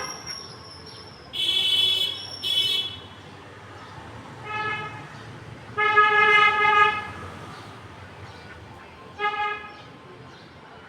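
Vehicle horns honking in several separate toots: two short, higher-pitched honks, then three honks of a lower horn, the middle one the longest and loudest at about a second.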